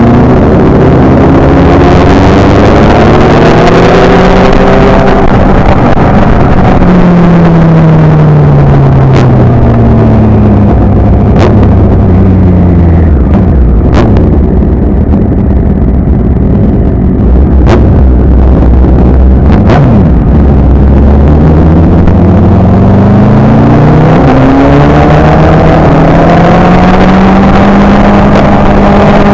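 Motorcycle engine heard from on board, very loud: its pitch climbs over the first few seconds, falls away over several seconds to a low steady note through the middle, then climbs again and holds near the end. A few short clicks in the middle.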